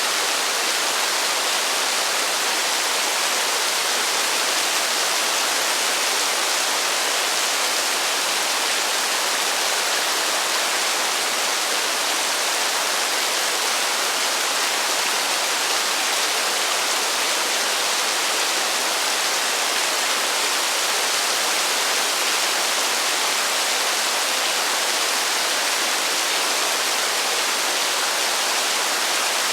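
Heavy rain falling in a steady, unbroken hiss, with no thunder and no single drops standing out.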